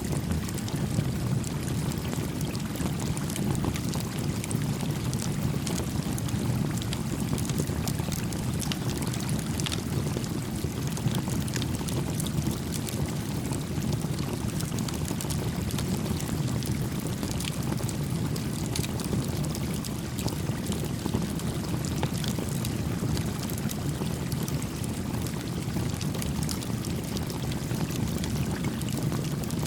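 Gently flowing stream babbling steadily, with a small wood campfire crackling over it in scattered sharp ticks and pops.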